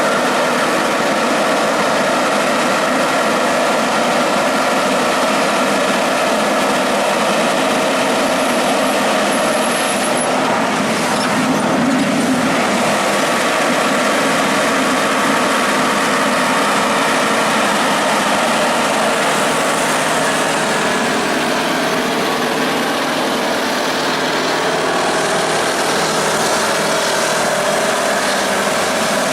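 Heavy truck's diesel engine running steadily and loudly, with a brief extra noise about halfway through.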